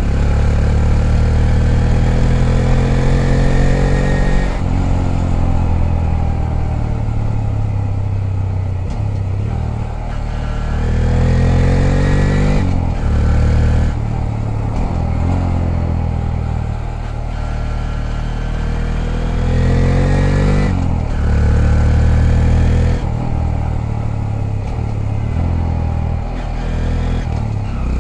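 Honda Grom's 125 cc single-cylinder four-stroke engine under way, revving up through the gears: its pitch climbs, then drops at each gear change, several times over.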